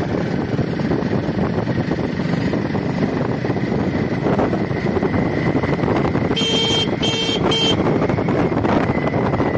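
Riding noise from a Hero Honda Splendor motorcycle, engine and wind on the microphone. A vehicle horn beeps three short times about six and a half seconds in.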